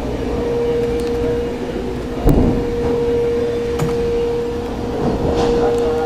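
Claw machine running during a grab: a steady whine-like tone over machine hum, with one loud thump about two seconds in.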